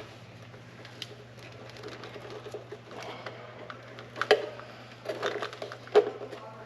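Hands working a rubber-mouthed pod air filter and its clamp onto a motorcycle carburettor: rustling and scattered small clicks, with two sharper knocks about four and six seconds in. A steady low hum runs underneath.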